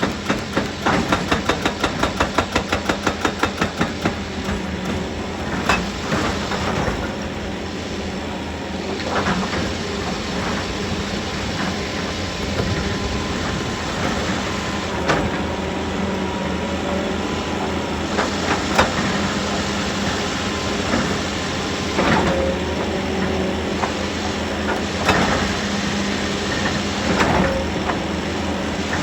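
Heavy rock-working machinery running with a steady engine hum. A fast, even hammering during the first few seconds gives way to scattered single knocks and clanks of rock and metal.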